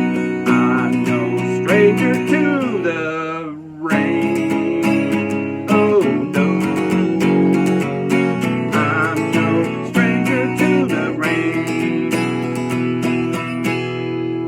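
Acoustic guitar played solo, strummed and picked through an instrumental break of a slow country song, with a brief pause about four seconds in.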